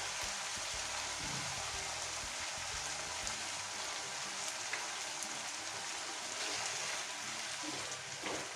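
Chicken pieces with onion and ginger-garlic paste sizzling steadily in hot oil in a pan, with a few faint crackles.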